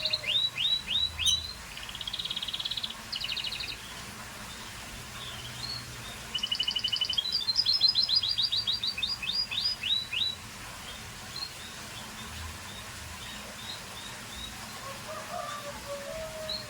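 Scotch Fancy canary singing in two bursts of rapid trills and runs of quick downward-slurred whistled notes, the first in the opening four seconds and the second from about six to ten seconds in, followed by a few faint chirps.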